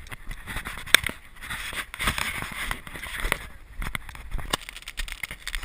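Fireworks going off: irregular sharp pops, about a dozen, over a steady fizzing hiss.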